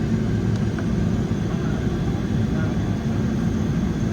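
Boeing 777-300's GE90 jet engines running with a steady, unchanging low rumble.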